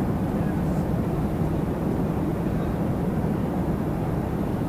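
Steady low rumble of an airliner in flight, heard inside the passenger cabin.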